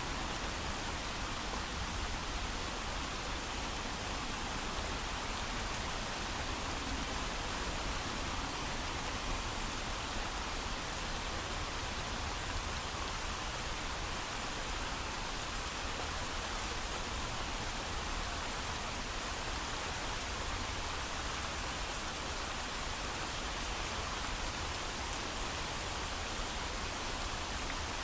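Heavy rain falling in an even, steady hiss, with no thunder.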